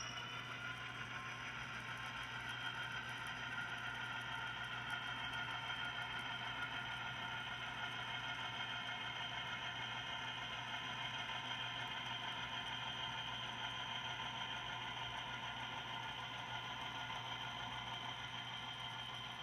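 Model diesel locomotive running on a model railroad layout during switching, a steady whir with high whining tones over a low hum.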